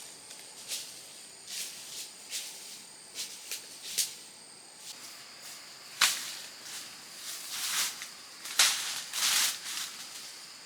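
Irregular rustling and swishing noises, a dozen or so short strokes, louder and closer together in the second half, over a faint steady high-pitched whine.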